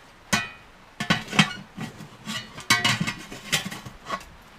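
Cut steel stove parts clinking and knocking against each other as they are handled and fitted, about a dozen separate knocks, each with a short metallic ring.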